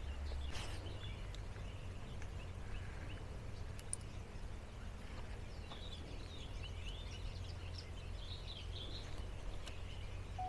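Faint birds chirping and twittering in the background, most busily from about halfway through, over a steady low rumble. Quiet outdoor ambience.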